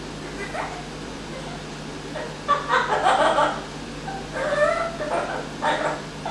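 Amazon parrot making a run of short, choppy, laugh-like calls, starting about two and a half seconds in after a single brief call near the start.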